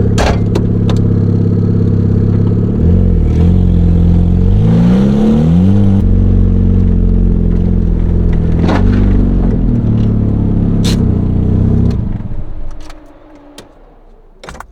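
Turbocharged Mazda Miata four-cylinder engine running, revving up and back down a few times, with a few sharp clicks. It is shut off about twelve seconds in.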